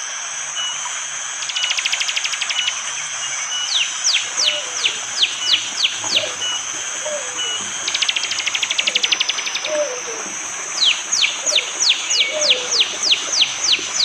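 Prenjak jali calling in bouts: quick runs of sharp, falling whistled notes, about three a second, alternating with short fast buzzy trills, over a steady high hiss.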